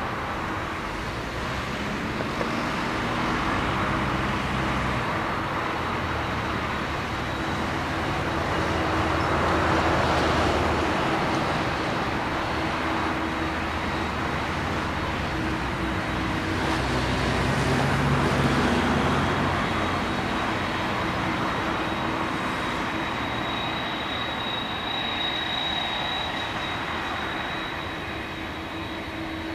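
Jet airliner engines running at a distance: a steady rumble with a thin high whine, swelling twice and easing off near the end.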